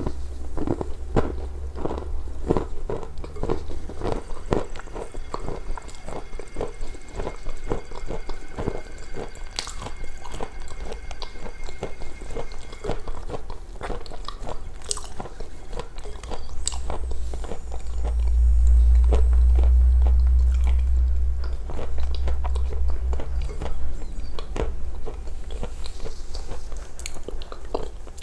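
Close-miked eating sounds: a person chewing and biting with many small wet clicks and smacks of the mouth. A low rumble swells for a few seconds past the middle.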